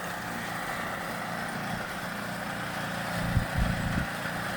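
An engine running steadily at a distance, with wind gusts buffeting the microphone about three seconds in.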